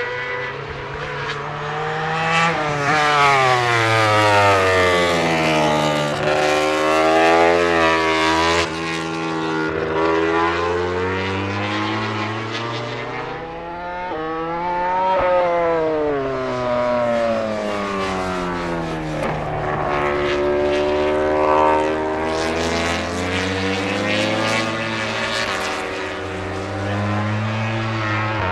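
MotoGP prototype racing motorcycle engines at high revs on track, their pitch climbing and falling several times over as the bikes accelerate, shift gear and pass by.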